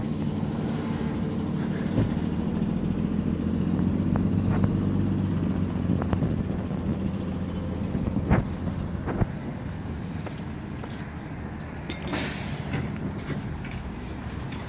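A heavy vehicle's engine running steadily close by, a little louder a few seconds in. A few sharp knocks come through, and near the end there is a short hiss of air like an air brake releasing.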